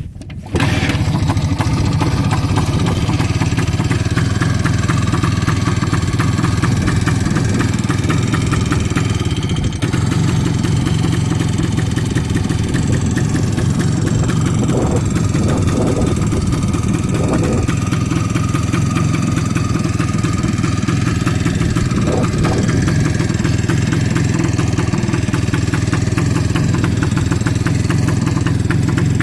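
IZh Planeta 3 motorcycle's single-cylinder two-stroke engine catching about half a second in and then running steadily, with a few short changes in its note around the middle. It has a faulty ignition coil, which makes it run unevenly.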